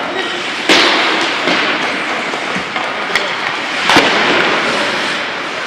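Two sharp impacts from ice hockey play, about three seconds apart, each ringing out in the rink's echo, over a steady background noise.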